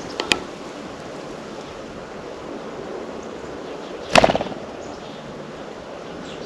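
Birds at a feeder: a couple of sharp taps near the start and one short, louder rattling burst about four seconds in, over a steady outdoor hiss.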